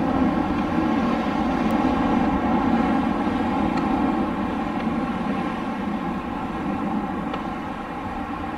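Wind blowing steadily, a continuous rushing noise that eases slightly toward the end.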